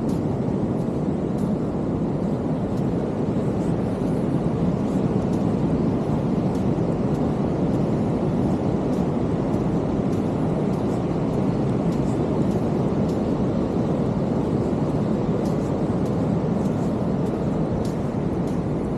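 Steady roar of big ocean waves breaking on the beach, with faint scattered ticks over it.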